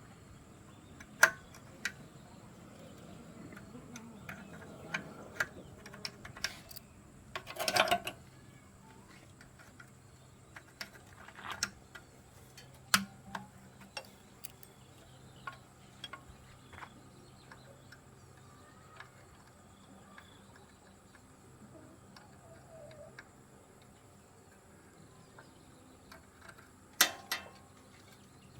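Scattered metallic clicks and clinks of hand tools and small diesel engine parts being handled, with a louder rattling clatter about eight seconds in and another near the end.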